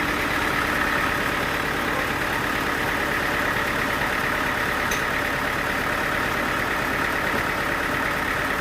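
Engine-driven sawmill machinery running steadily, a constant engine drone with a steady higher whine over it.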